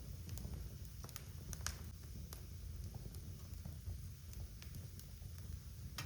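Wood fire burning in a fireplace: a low steady rumble under scattered sharp crackles and pops, the loudest about a second and a half in, with another near the end.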